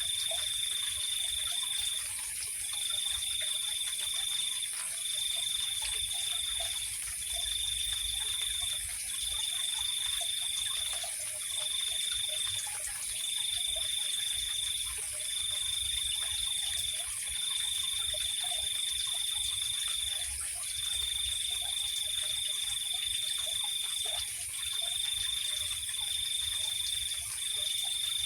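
Night insect chorus: a cricket trilling in bursts of one to three seconds with short breaks, over a steady, higher-pitched hum of other insects.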